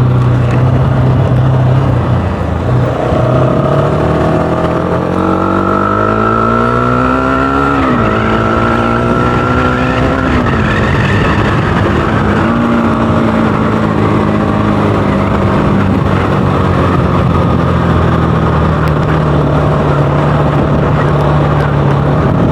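Bajaj Pulsar AS200's single-cylinder engine running through a fitted KTM Duke 250 exhaust while the bike is ridden on a rough trail. The engine note climbs steadily for a few seconds, drops sharply about eight seconds in, then holds and slowly eases off.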